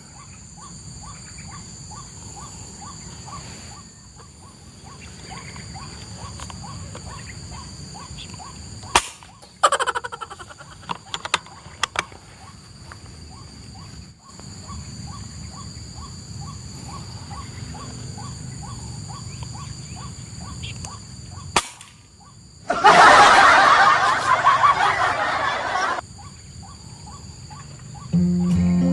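Outdoor field ambience with a steady high insect-like drone, a short ticking call repeated about twice a second for most of the stretch, and a few sharp clicks. A loud rustling, noisy burst lasts about three seconds near the end.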